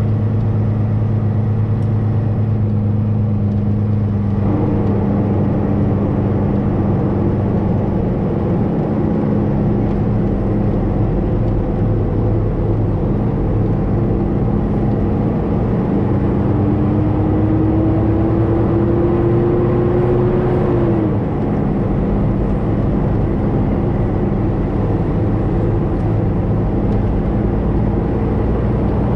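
Semi-truck diesel engine running steadily under way, heard from inside the cab. About two-thirds of the way through, its pitch climbs slowly for several seconds and then drops suddenly.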